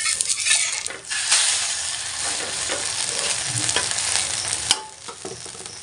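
Egg omelette sizzling as it fries in a pan, with a few clicks of a utensil against the pan. The sizzle drops quieter after a sharp click near the end.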